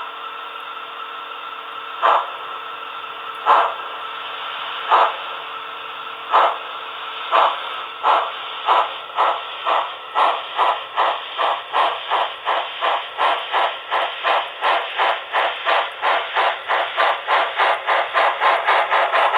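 Onboard sound system of Tenshodo Quantum HO-scale C62 steam locomotive models playing a steady steam hiss, then exhaust chuffs that begin about two seconds in, slow at first and quickening steadily to about three a second as the locomotive starts away, heard through the models' small speakers.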